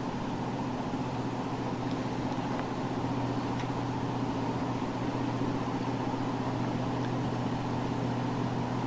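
Steady low mechanical drone of a patrol boat's engines running underway at speed, an even hum with no breaks.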